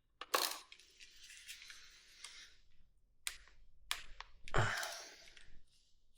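Metal hand-tool clicks and knocks while working at stuck screws, with a scraping rasp for about two seconds after the first sharp click and a heavier knock about four and a half seconds in.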